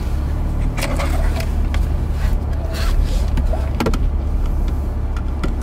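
Car engine idling, a steady low hum heard inside the cabin, with a few sharp clicks and rustles from someone moving in the seat.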